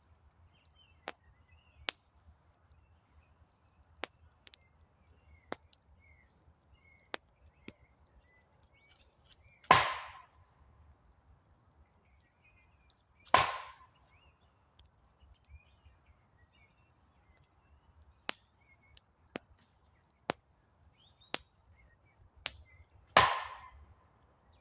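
Wood campfire crackling with scattered sharp pops, and three much louder cracks that fade quickly, about ten seconds in, three seconds later, and near the end. Faint bird chirps sound between them.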